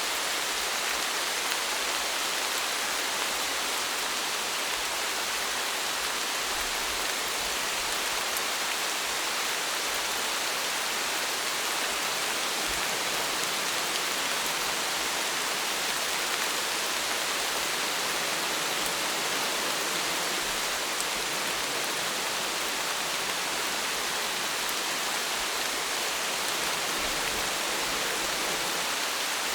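Steady rain, an even hiss of many drops falling on a surface, with faint scattered drop ticks and no change in intensity.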